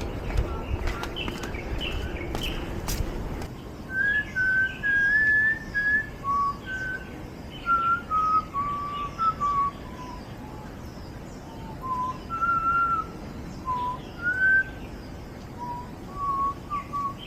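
Rustling with a few clicks, then from about four seconds in a slow series of clear whistled notes that wander up and down in pitch like a tune. Faint high bird chirps sound behind them.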